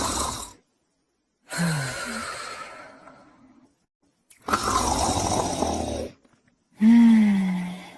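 Borzoi dog snoring in her sleep: a series of noisy, rasping breaths, about one every two seconds with short silent gaps between. The last breath carries a low groaning tone that falls slightly in pitch.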